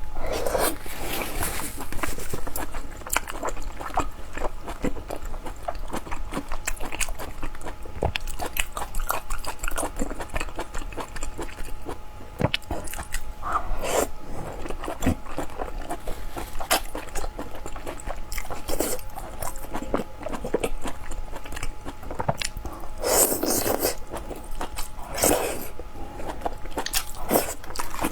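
Close-miked eating sounds: chewing and biting with a dense run of small wet clicks. A few louder bites or slurps stand out, mostly in the second half.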